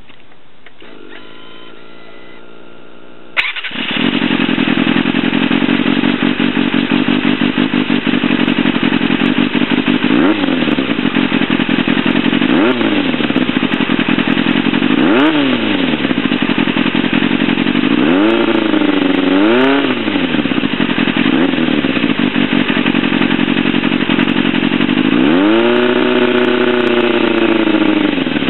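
Yamaha FZR400RR inline-four through a Devil slip-on exhaust. A few seconds of starter cranking, then the engine catches suddenly and idles. It is blipped up several times in short revs, with one longer held rev near the end.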